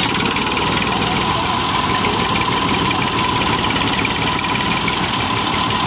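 A tractor engine running steadily with a fast, even rumble and a thin steady whine above it, holding the same pace throughout.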